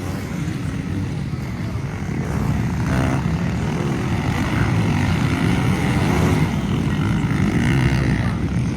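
Motocross motorcycles racing, their engines revving up and down as they go round the track, growing louder a couple of seconds in.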